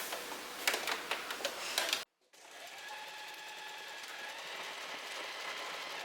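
Domestic sewing machine running steadily, sewing with a stretch stitch; before it, about two seconds of light clicks and knocks, then a sudden break before the machine runs.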